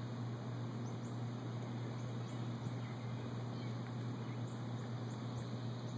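Outdoor background: a steady low hum, with faint short high chirps now and then.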